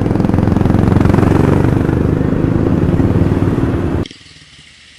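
Motorcycle engine running under way, an even pulsing drone mixed with wind rush, that cuts off abruptly about four seconds in, leaving only a faint low hum.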